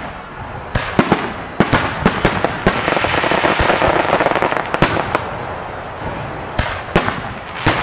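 Aerial fireworks shells bursting in a display, a quick run of sharp bangs at irregular spacing with a dense noisy wash in the middle, then a few more bangs near the end.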